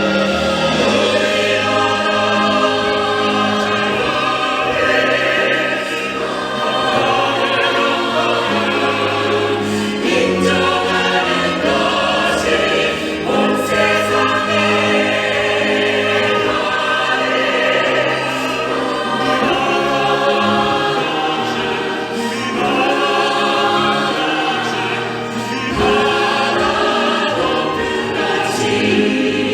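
A vocal ensemble singing a sacred song in harmony, several voices together over sustained low notes.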